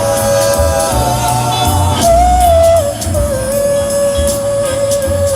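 Woman singing a love ballad, holding long sustained notes that step between a few pitches, over a band accompaniment with a pulsing bass.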